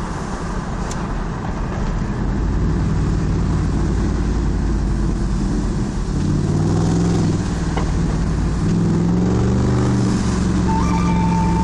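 Pickup truck engine and road noise heard from inside the cab while driving, growing louder about two seconds in, with the engine note rising and falling as the truck accelerates and eases off.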